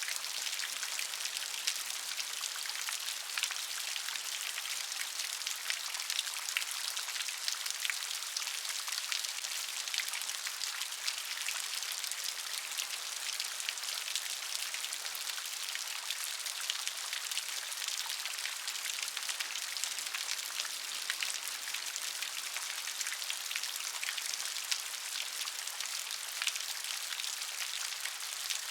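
Steady gentle rain, an even hiss made of many fine drop ticks, with no thunder or low rumble.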